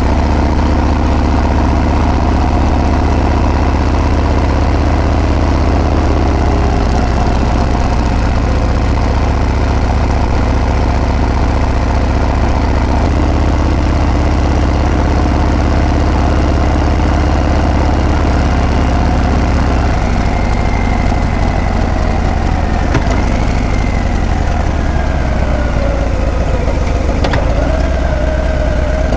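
Harley-Davidson Breakout's V-twin engine running steadily with a deep, low exhaust note. In the last third a fainter higher tone slides down and back up in pitch.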